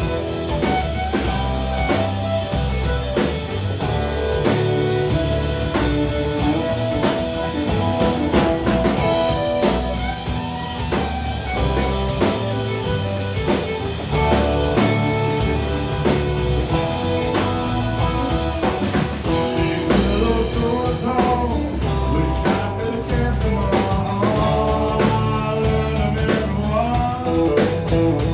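Live country band playing an instrumental break: a guitar carries the melody over drum kit and bass with a steady beat.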